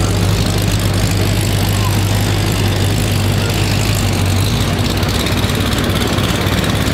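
Cadillac CTS-V's supercharged 6.2-litre V8 running at low revs through its exhaust as the car creeps forward, a steady deep rumble.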